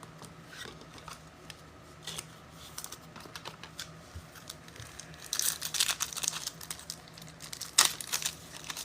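Foil wrapper of a trading-card pack being torn open and crinkled. A few faint ticks and rustles give way to dense crinkling from about five seconds in, with another burst near the end.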